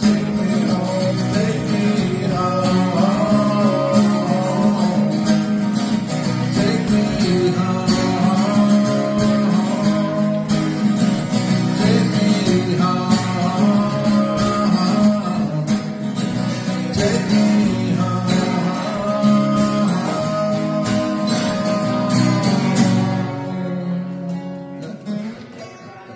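Guitar-led music with a strummed guitar, playing the instrumental close of a song and fading out over the last few seconds.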